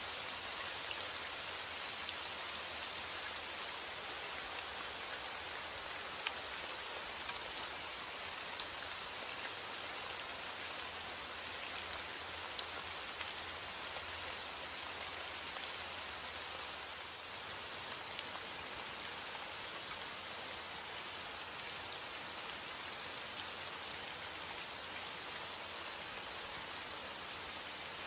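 Steady heavy rain falling on a surface, a dense even hiss with scattered individual drop ticks.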